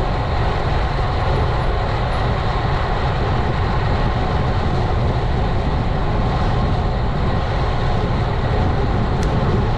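Steady wind rumble on the action camera's microphone as the road bike rides along at speed.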